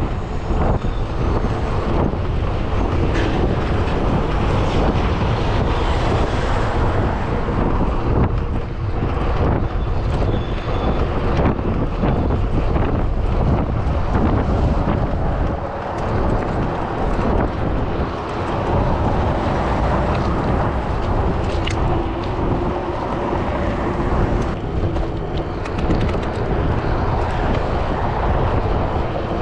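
Steady wind noise on the microphone of a moving bicycle's camera, mixed with road traffic.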